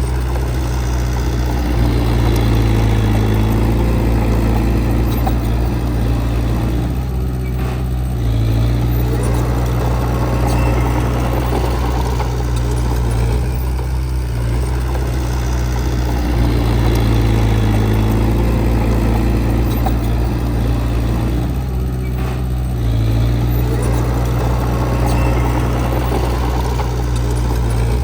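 Heavy diesel engine of earthmoving machinery running continuously. The engine note swells and eases in a repeating cycle about every seven seconds.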